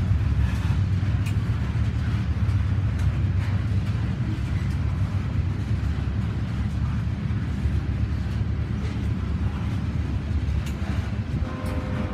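Tank cars of a slow freight oil train rolling past: a steady low rumble with scattered clicks from the wheels on the rails. Near the end a steady pitched, chord-like tone comes in.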